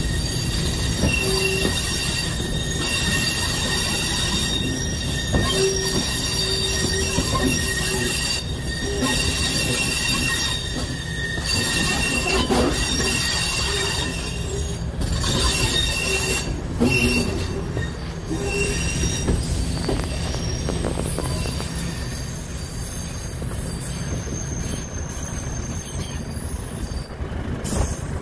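Railway carriage running along the track, heard from an open carriage window: a steady low rumble of wheels on rail with high, thin wheel-squeal tones that come and go, and scattered knocks from the running gear over the track.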